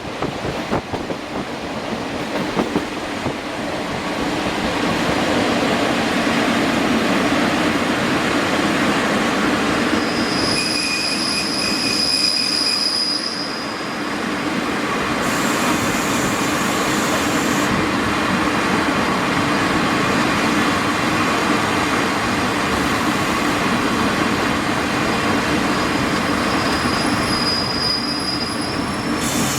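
Passenger train running on the rails, heard from on board: a steady rumble of wheels and track, with rail-joint clicks near the start. A high, thin wheel squeal rises over it for a few seconds around the middle, and briefly again near the end.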